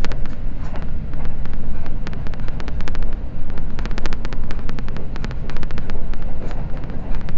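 Limited express train running at speed, heard from inside the car: a steady low rumble of wheels on the track with many rapid, irregular sharp clicks.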